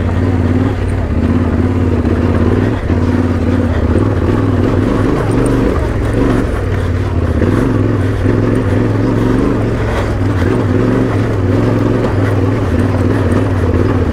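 Husqvarna 701's single-cylinder engine running steadily under load as the dual-sport motorcycle climbs a rough mountain track.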